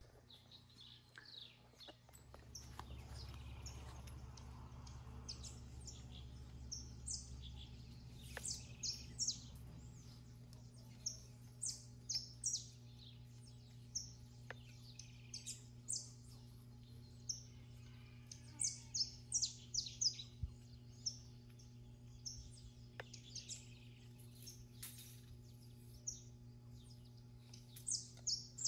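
Small birds chirping: short, high, falling chirps that come in quick clusters, some several in a row, over a faint steady low hum.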